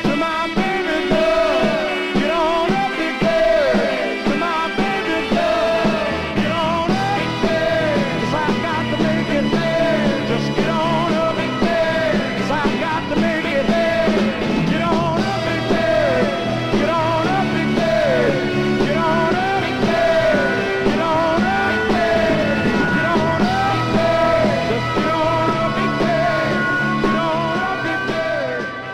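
1968 Stax soul record played from vinyl: the full band keeps going with a steady beat, then begins to fade out near the end.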